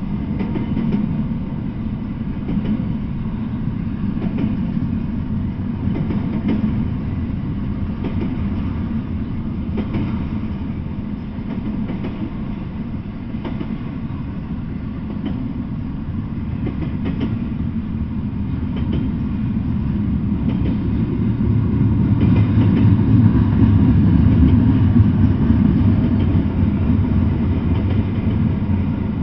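Double-stack intermodal freight train rolling past, a steady rumble of steel wheels on the rails with faint clicks. It swells louder about three quarters of the way through.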